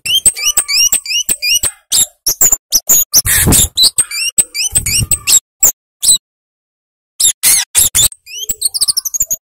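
Flowerpecker (kemade) calling rapidly: a dense run of sharp, high rising chips and dry ticking clicks, with a silent pause of about a second past the middle before the chipping resumes.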